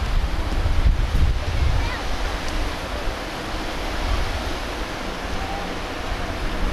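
Sea surf washing on the shore, with wind buffeting the microphone as a low rumble, heaviest in the first couple of seconds.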